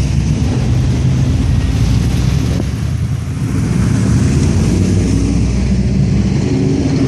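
Car engines running low and steady as cars cruise slowly past.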